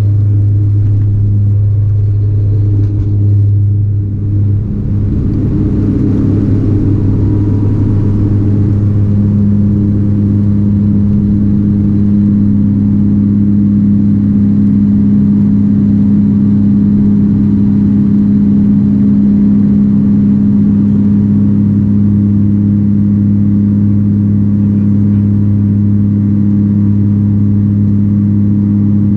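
Cabin sound of a Bombardier Dash 8-400's turboprops: a loud, steady, deep propeller drone with even hum tones layered over a low rumble. The level dips briefly about four seconds in.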